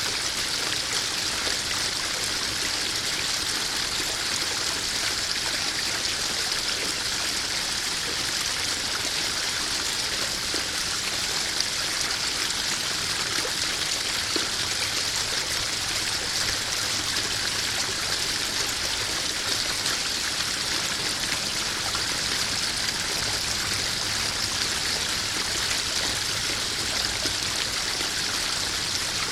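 Small garden waterfall spilling steadily into a koi pond, a continuous splashing and trickling of water.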